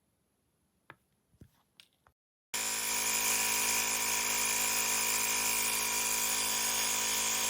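A few faint clicks, then a sudden start about two and a half seconds in: a small battery-powered air compressor, a CYCPLUS cordless tyre inflator, running with a loud, steady buzzing drone.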